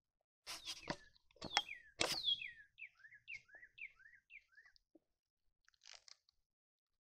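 Bird calls: a few sharp, high calls about half a second to two seconds in, then a run of short falling chirps, about four a second, that fades out about five seconds in.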